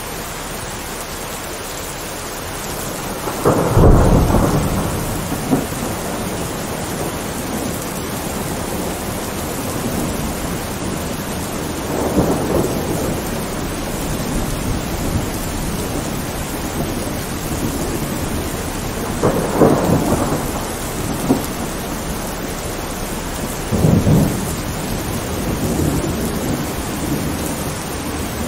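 Thunderstorm: steady rain falling, with thunder rumbling four times, the loudest peal about four seconds in.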